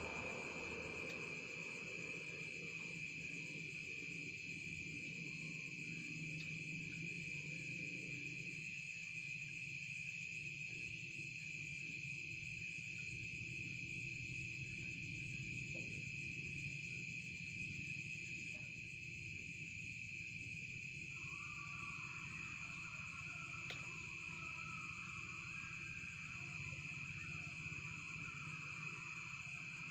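Insects, crickets, trilling in a continuous steady chorus, with a second, fainter and more uneven chirring joining about 21 seconds in.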